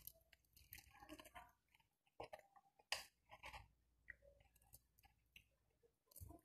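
Quiet chewing and the soft crackle of crispy fried chicken being torn apart by hand, in scattered short clicks and crunches, the loudest about three seconds in.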